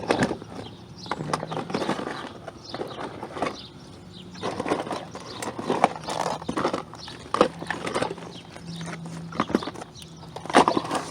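Irregular clicks and knocks of hand tools and metal parts being handled while wiring an air conditioner condenser's capacitor terminals, with a faint low hum underneath.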